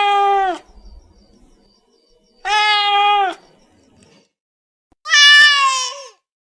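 Domestic cat meowing: three separate meows about two and a half seconds apart, each about a second long and dropping slightly in pitch at the end, the third one higher-pitched than the first two.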